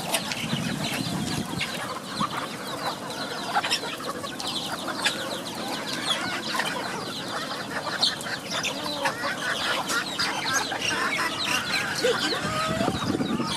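A flock of chickens clucking and chirping, many short calls overlapping without a break.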